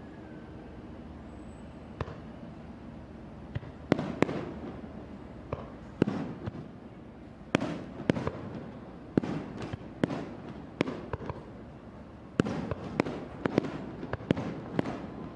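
Fireworks shells bursting over a steady crowd and ambient hiss: a single bang about two seconds in, then irregular booms, often two or three close together, growing denser toward the end.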